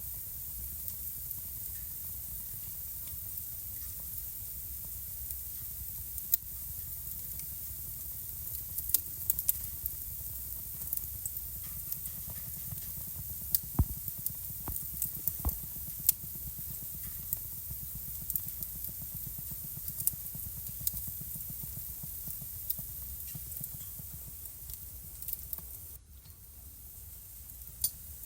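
Wood fire burning in a fireplace: a steady low rumble and hiss with scattered sharp crackles and pops, thickest around the middle. The background drops suddenly about two seconds before the end.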